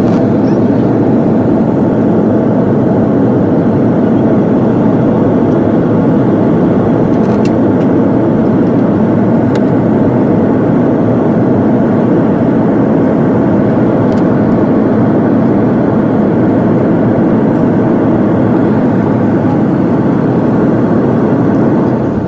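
Steady, even cabin noise of a jet airliner in flight: engine and airflow noise heard from inside the passenger cabin, loud and unchanging.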